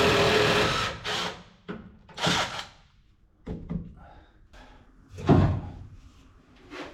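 A steady motor sound that stops about a second in, then a string of wooden knocks and clunks as timber boat steps are unscrewed and lifted off, with one heavy thud about five seconds in.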